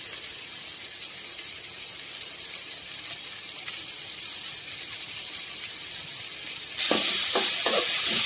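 Capsicum, onion and tomato sizzling steadily in hot oil in a metal kadai. About seven seconds in, the sizzle grows louder as a spatula stirs the vegetables, scraping the pan a few times.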